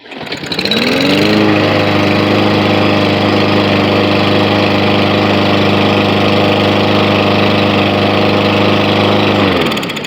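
Briggs & Stratton lawn mower engine starting on the pull with its freshly cleaned carburetor: it catches almost at once and speeds up over about a second, runs steadily, then winds down and stops near the end.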